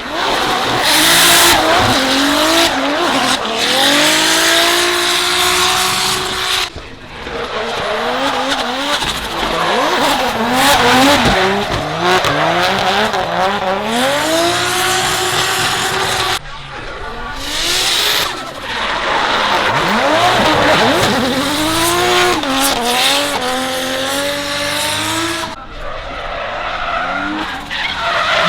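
Drift cars' engines revving hard, the pitch sweeping up and down again and again as the throttle is worked through the slides, with tyre squeal and skidding. The sound drops off sharply three times and picks straight up again.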